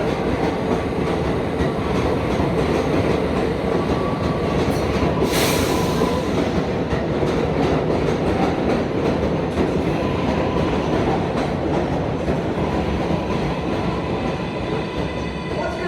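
New York City Subway train running through the station, a loud steady rumble of wheels and motors, with a short sharp hiss of air about five seconds in.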